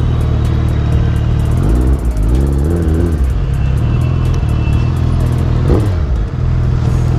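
Motorcycle engine idling steadily, its pitch wavering briefly about two seconds in.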